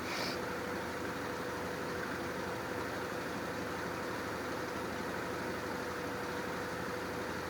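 Brastemp Ative! 11 kg top-loading washing machine running its spin stage: a steady whir with a constant mid-pitched whine from the motor.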